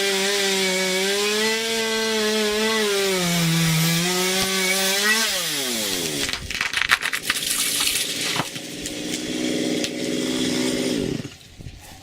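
Small chainsaw running at full throttle through the ash trunk, then the revs drop sharply about five seconds in. Cracking and knocking of the ash tree breaking off and coming down follow. The saw then idles and cuts off near the end.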